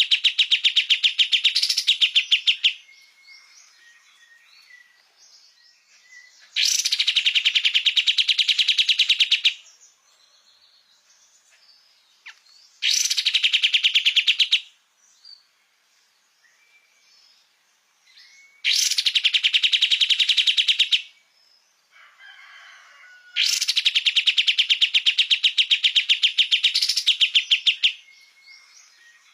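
A kapas tembak songbird sings a fast, rattling trill of rapidly repeated notes in five bursts of about two to four seconds each, in full song (gacor). Faint twittering fills the short gaps between the bursts.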